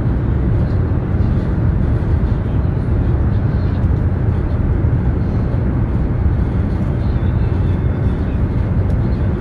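Steady low rumble and hiss of a high-speed train running at speed, heard inside the passenger car.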